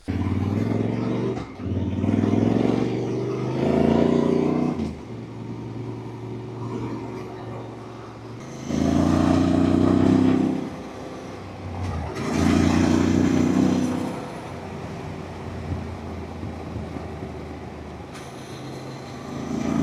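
Yamaha Ténéré 700's parallel-twin engine running under way, swelling louder in several stretches of a second or two as the throttle is opened and falling back between them.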